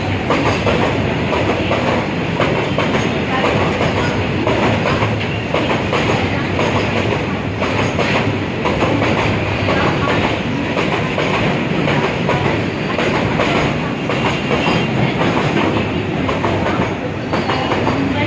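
Freight train rolling past at steady speed, its wagon wheels clattering over the rail joints with a continuous run of clicks.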